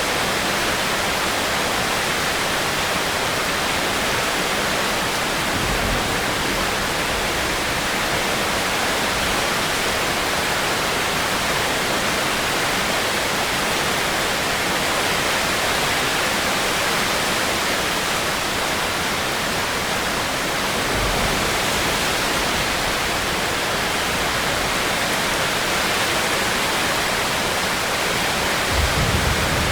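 Steady heavy rain, an even hiss that does not let up. Faint low rumbles come in briefly a few times, about six seconds in, about twenty seconds in and near the end.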